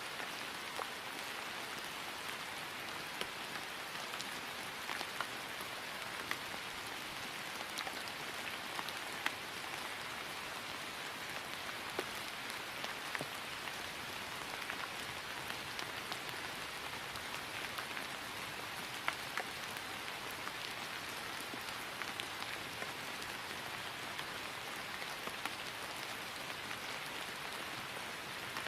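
Steady rain falling on grass: an even hiss with scattered individual drop ticks.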